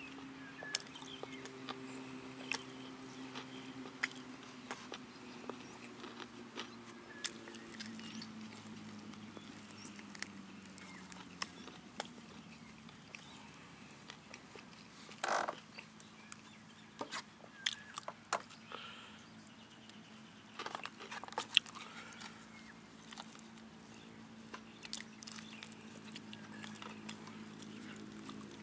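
Chewing of crispy-skinned fried chicken close to the microphone: soft smacking and crunching with scattered sharp clicks, a few louder crunches along the way, over a faint steady low hum.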